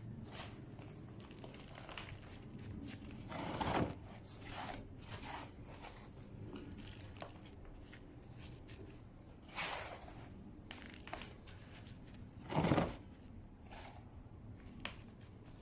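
Hands patting a plant pot and pressing gritty weathered-rock potting mix around an agave's roots, a scatter of rustles and crunches with three louder pats as the soil settles.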